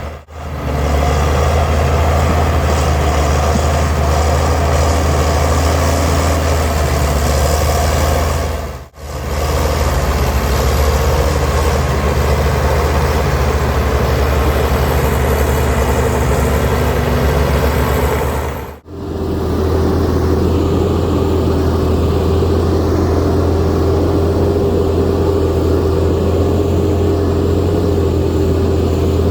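Diesel engines of heavy earthmoving machinery running steadily, in three stretches broken by brief dropouts about 9 and 19 seconds in. In the last stretch a steady whine sits over the engine.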